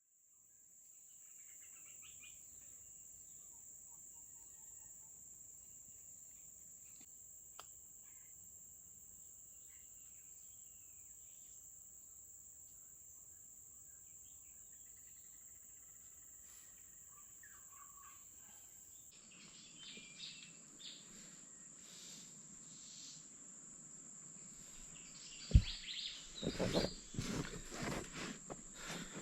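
Steady high-pitched drone of crickets in tropical forest, with scattered faint bird chirps. Near the end a sharp knock, then irregular rustling and handling noises.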